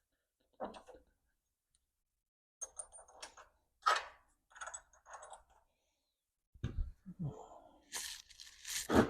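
Loose metal nuts and washers being handled and rummaged through, giving scattered clinks, a few bright pings, small knocks and a rustle near the end.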